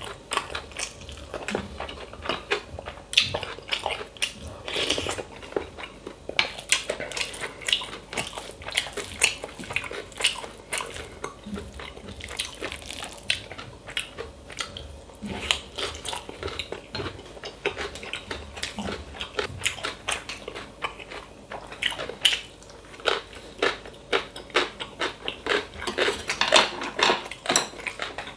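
Close-miked eating sounds: chewing and biting of bibimbap and side dishes, with utensils clinking and scraping against the dishes in many short irregular clicks.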